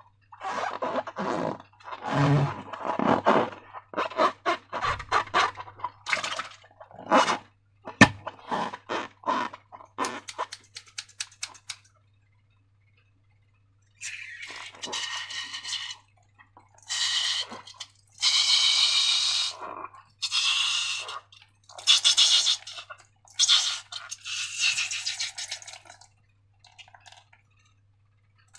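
Sticky slime being squished and worked by hand: quick runs of wet crackles and clicks, then, after a short pause about halfway, longer squelching passes.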